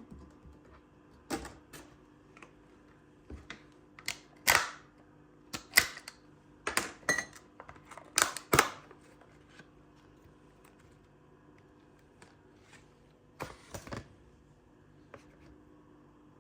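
Small hard objects being handled: an irregular run of sharp clicks and knocks, thickest in the first half, with a short cluster of a few more near the end, over a faint steady hum.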